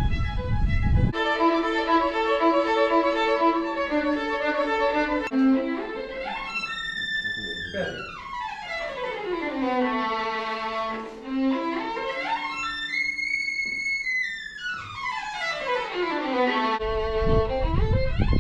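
Violin playing held notes, then long slides sweeping up and down in pitch, twice over.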